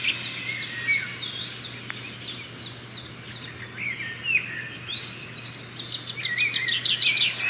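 Birds chirping: repeated short, downward-sliding whistled calls, with a quicker run of calls near the end.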